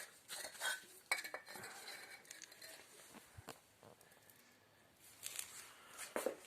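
Bricks being handled, with scattered hard knocks and clinks as they touch each other or the work surface.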